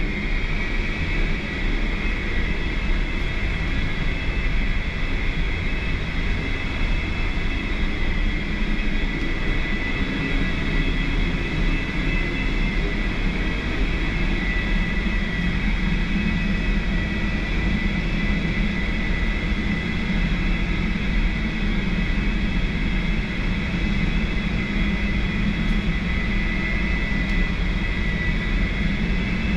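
Steady engine and machinery drone, deep and unbroken, with a constant high whine above it.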